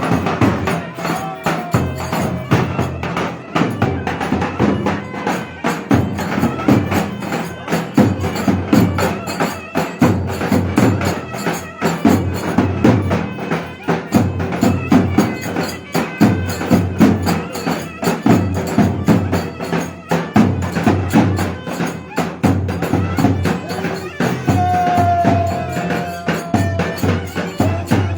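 Live Turkish folk dance music (oyun havası) driven by a fast, steady davul drum beat, with a held high note from a wind instrument near the end.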